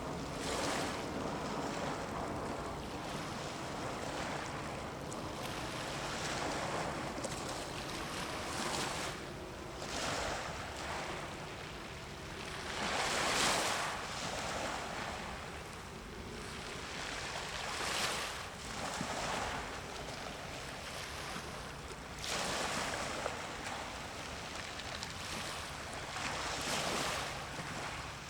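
Sea waves washing in surges every few seconds, with wind on the microphone and a faint steady low hum underneath.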